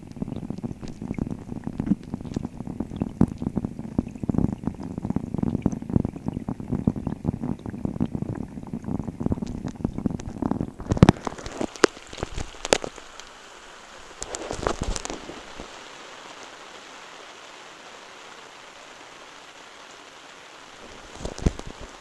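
Rain falling on a pond heard from under the water: a dense patter of drop impacts as low pops and thuds. About halfway through the sound changes to a steady, higher hiss of rain, with a few loud knocks and a short rumbling burst.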